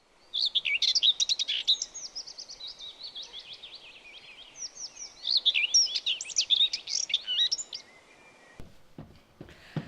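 Songbirds singing, fast high chirps and trills in two long bouts, then a few low knocks near the end.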